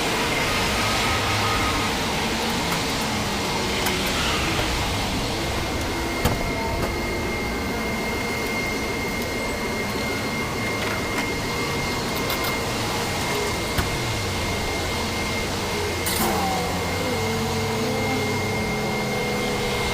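Car wash equipment running: a steady rushing of water spray or air blowers, with a thin steady whine through it.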